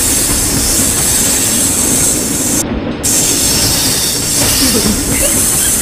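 Train running on rails: steady, loud rolling noise with metallic wheel squeal, briefly cut off in its highest part about three seconds in, and squealing tones beginning near the end.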